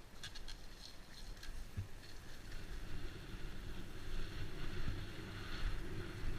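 Mountain bike riding a jump section on a dirt trail: tyre rumble and wind noise on the microphone, with scattered low thumps from bumps and landings. Quick light ticking is heard in the first second or so, and the rushing noise grows louder as speed builds.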